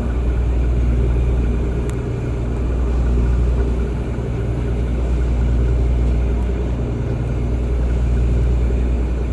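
The Daiichi Shodoshima Maru car ferry's engines running, a steady low drone with a deep hum.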